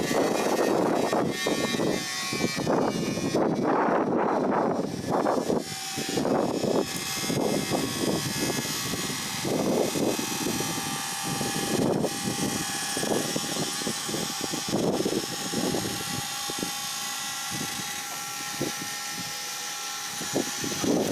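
Dump trailer's electric hydraulic pump running as the bed is raised to tip out a load, with a steady whine and irregular rushing noise over it.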